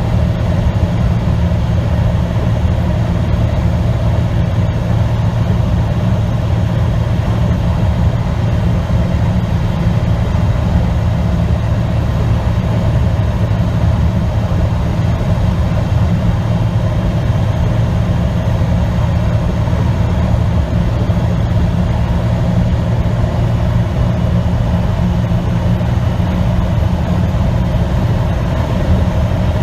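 Semi-truck diesel engine running with a steady low drone under road noise while driving at an even pace.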